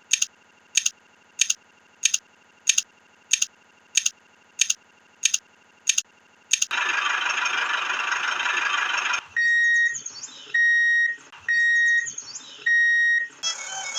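A regular series of sharp ticks, about one and a half a second, then a short rush of noise, then four beeps at one steady pitch about a second apart.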